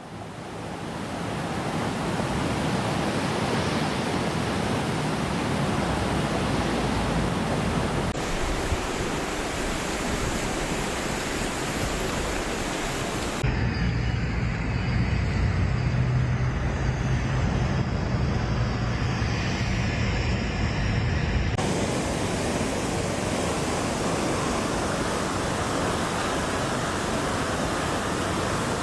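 Steady rushing of water, fading in at the start and changing abruptly about 8, 13 and 22 seconds in. The stretch between 13 and 22 seconds is deeper and duller, with a low rumble under it.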